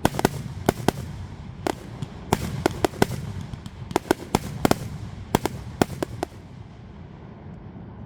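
Fireworks going off in a rapid, irregular string of sharp bangs and cracks, which stop about six seconds in and leave a fading low rumble.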